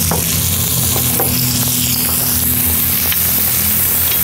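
Diced onion and red bell pepper sizzling in hot oil in a cast-iron cauldron, a steady frying hiss. A steady low drone sounds underneath.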